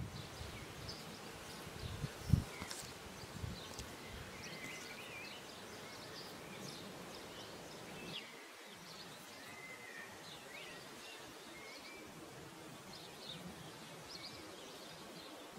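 Small birds chirping and singing faintly in short, scattered calls over a steady soft outdoor hiss. A brief low knock comes a little over two seconds in.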